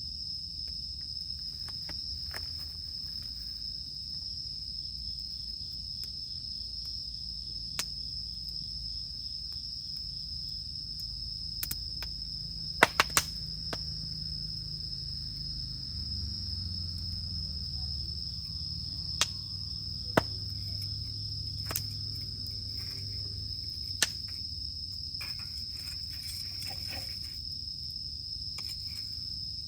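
Campfire crackling with scattered sharp pops, the loudest a quick run of three about thirteen seconds in, over a steady high drone of cicadas and a low rumble.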